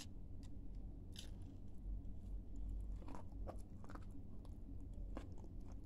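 A person chewing a mouthful of crunchy edible clay, with wet chewing and a few irregular sharp crunches.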